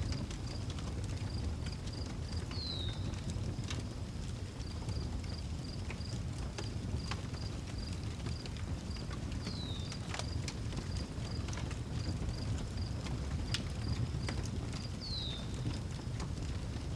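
Outdoor wood fire crackling with scattered sharp pops over a steady low rumble, while a cricket chirps in an even pulse about three times a second. A bird gives a short downward call three times, about six seconds apart.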